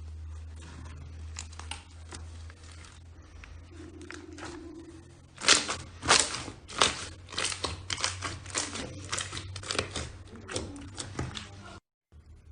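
Slime being squeezed and worked by hand, with scattered soft clicks at first and then, about halfway in, a dense run of sharp crackling pops, over a steady low hum; it cuts off suddenly near the end.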